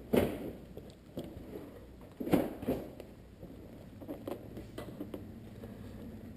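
Knocks, clunks and light rattling of a plastic car bumper cover being handled and pushed into place, with the loudest knocks near the start and about two and a half seconds in.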